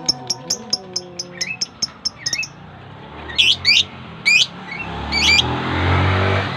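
Budgerigars (Australian parakeets) chirping and calling: a quick run of short chirps, then several loud sweeping calls. A low rumble swells up near the end.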